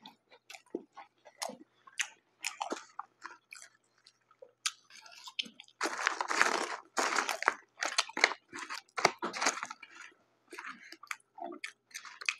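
Close-miked mouth sounds of a man chewing a bite of a quarter-pound cheeseburger: wet smacks and clicks, with a louder, denser stretch about halfway through.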